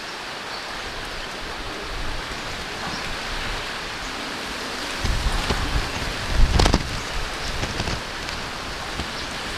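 Steady rain falling, an even hiss. From about five seconds in, low rumbling thumps join it, and a sharp clatter about six and a half seconds in is the loudest sound.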